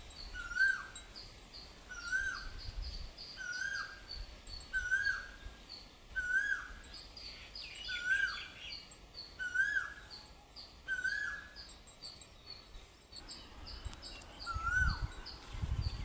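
A bird repeating the same short, downward-curling call about once every second or so, with a brief pause past the middle, over fainter high chirps from other birds. A low rumble comes near the end.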